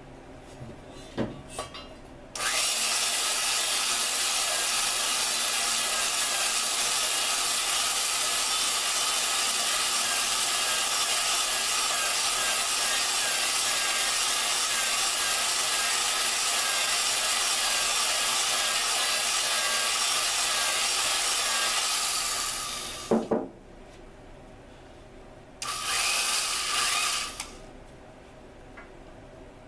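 Drill spinning a valve against its seat to lap it in: a steady gritty grinding for about twenty seconds, then a short second run near the end. A few knocks come just before the first run and as it stops.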